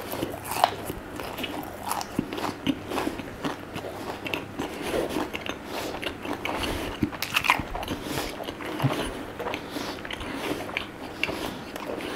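Close-up eating sounds of fried fish, squid and chips being bitten and chewed: irregular crisp crunches and mouth clicks.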